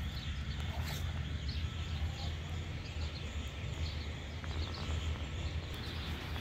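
Small birds chirping repeatedly, short high notes about twice a second, over a steady low rumble.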